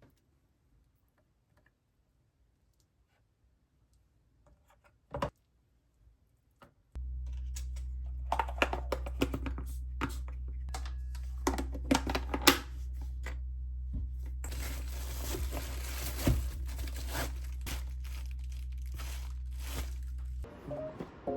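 Crinkly packaging being handled and torn, a run of crackling and tearing sounds, over a steady low hum that starts about seven seconds in; a single sharp click comes a little earlier.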